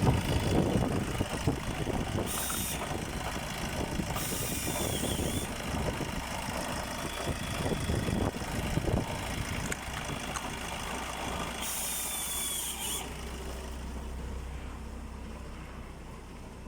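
Opel Z13DTH 1.3 CDTi four-cylinder turbodiesel running during an engine test, with three short hisses about 2, 4 and 12 seconds in. The engine sound grows quieter toward the end.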